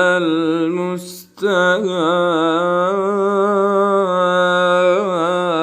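Male voice singing an Islamic ibtihal (devotional supplication) unaccompanied, drawing out a long melismatic vowel with wavering ornaments. There is a short break with an audible breath about a second in, then one long held, ornamented phrase.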